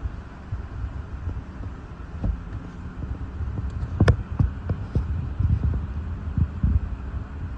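Hurricane-force wind gusts buffeting the microphone in an uneven low rumble, with a handful of sharp knocks and taps, the loudest about four seconds in.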